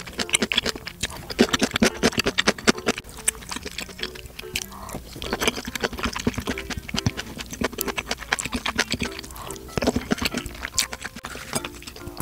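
Close-miked eating of pork-bone stew and rice: many quick wet chewing and lip-smacking sounds, with light clicks of a wooden spoon against a plastic rice bowl.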